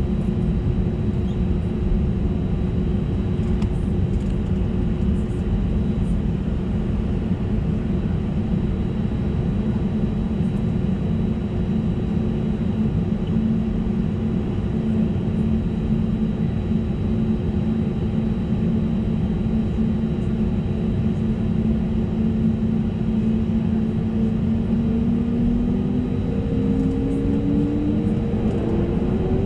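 Airbus A320neo's CFM LEAP-1A turbofans heard from inside the cabin: a steady low rumble with a steady engine hum and a faint high whine. In the last few seconds the engine tones rise in pitch as the engines spool up to takeoff thrust.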